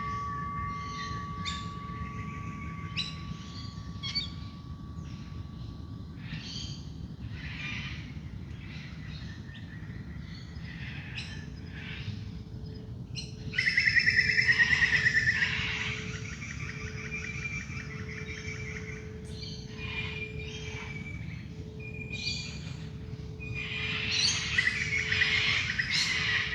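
Dawn chorus of many wild birds calling and singing over the steady ring of a singing bowl. A loud, rapid chattering call comes about 13 seconds in, and another dense burst of calls comes near the end.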